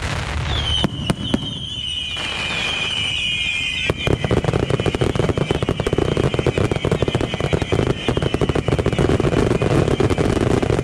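Aerial fireworks display: a few sharp bangs and high whistling shells near the start. About four seconds in, a dense, rapid crackling begins and keeps going under the whistles.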